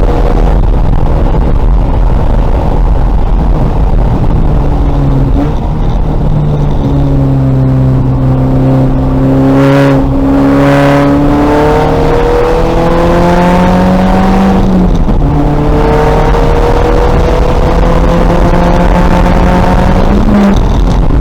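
Race-prepared 2000 VW Golf engine under hard acceleration. Its note climbs steadily and drops sharply at gear changes, about five seconds in, again about three-quarters through and near the end, over steady road and wind noise. A brief rush of noise comes about halfway through.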